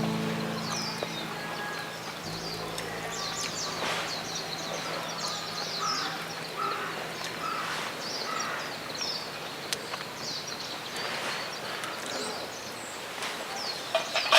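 Birds chirping over and over in open-air ambience, with a few lower crow-like caws in the middle. A low held tone fades out in the first two seconds.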